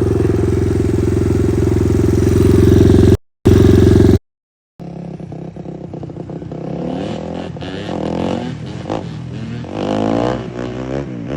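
Dirt bike engine: a loud, steady drone for about three seconds, a brief cut to silence, then the engine revving up and down with rising and falling pitch.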